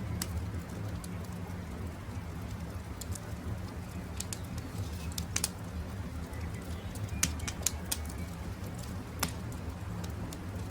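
Campfire crackling: a steady low rumble of burning wood with scattered sharp pops and snaps, a few louder ones in the second half. Faint bird calls sound now and then.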